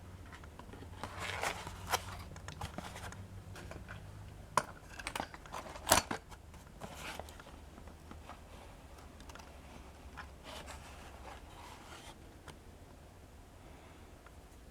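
Handling noise from a cardboard toy box and small models being moved about: rubbing and scraping with scattered clicks, the sharpest about six seconds in.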